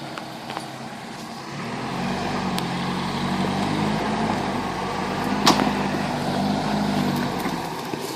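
1981 Toyota pickup's engine running steadily under a little throttle as the truck crawls over creek-bed rocks, louder from about two seconds in. A sharp knock comes about five and a half seconds in.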